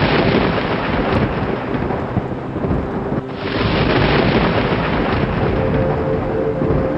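Thunder rumbling over steady rain, one long roll giving way to a fresh roll that swells up just after three seconds in.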